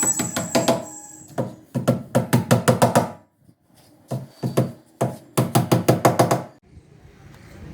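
Rapid hammer blows on wood, in runs of several quick strikes with short pauses between them.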